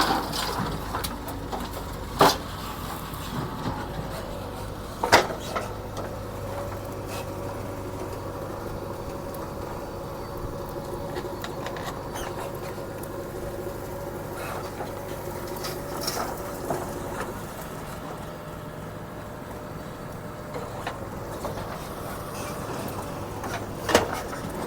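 JCB 3DX backhoe loader's engine running steadily while it works, with three sharp knocks spread through it.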